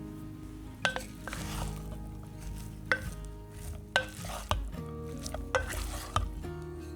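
A utensil stirring food in a pan with a light sizzle, knocking sharply against the pan about five times, over soft background music.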